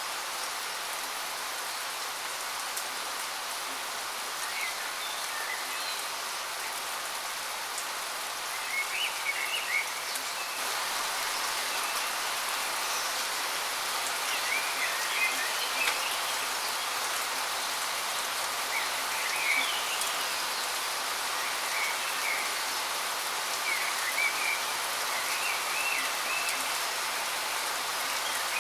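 Waterfall's steady rushing hiss, with short bird chirps and twitters breaking in every few seconds. The water gets slightly louder about ten seconds in.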